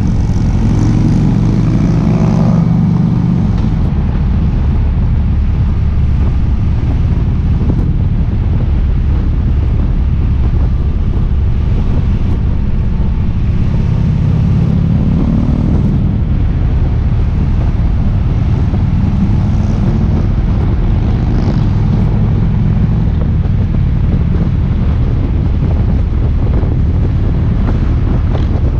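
Harley-Davidson Ultra Limited's V-twin engine running at road speed, with wind rushing over the microphone. The engine note rises twice as it accelerates, about a second in and again around the middle.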